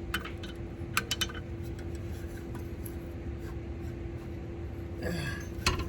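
A few light metallic clicks and clinks of a wrench and socket on bolts in the first second and a half, then steady low hum from the garage.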